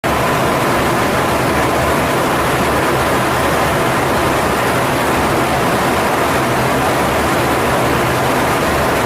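Steady jet aircraft cockpit noise: an even, loud rush of engine and airflow with a low hum and a faint steady tone, cutting in suddenly at the start.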